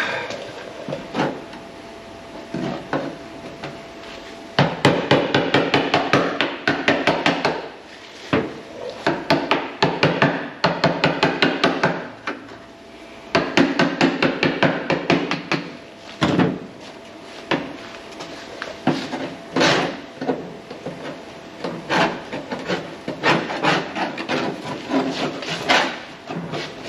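Hand tools working the rusted sheet metal of an old pickup cab: quick runs of sharp scraping and tapping strokes, several a second, each run lasting a few seconds with short pauses between.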